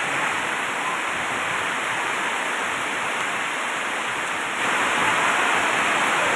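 Heavy rain pouring down as a dense, steady hiss, getting louder about four and a half seconds in.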